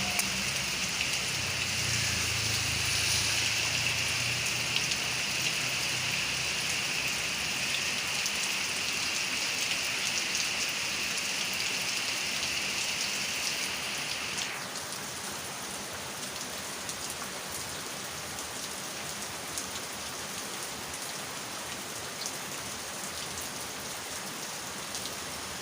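Heavy rain pouring steadily, an even hiss, with a low rumble fading out over the first several seconds. About halfway through, the higher part of the hiss drops off abruptly and the rain goes on a little quieter.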